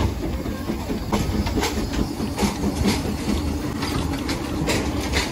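A train running on its rails: a steady low rumble with frequent, irregular clicks and knocks from the wheels and track.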